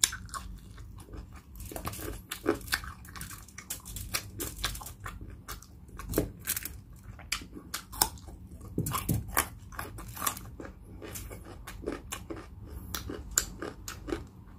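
Crunchy biting and chewing of crispy pata (deep-fried pork knuckle), with sharp crackling crunches several times a second.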